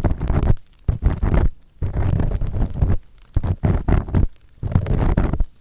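Earpick scraping firmly inside the ear of a binaural dummy-head microphone: about five rough rubbing strokes, each half a second to a second long, with short pauses between.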